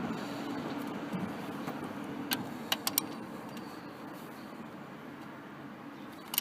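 A steady background rumble, with a few sharp clicks of hand tools and engine parts being handled: several a little over two seconds in, and one more at the very end.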